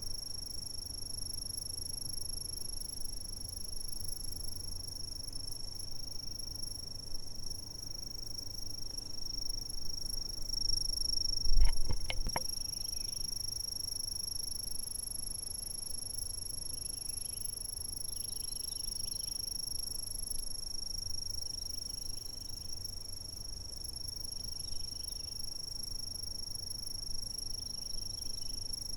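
Insects singing a steady, unbroken high-pitched drone, with a fainter higher tone above it, over a low rumble. About twelve seconds in, a sudden knock with a few clicks is the loudest sound; later, faint short chirps come and go.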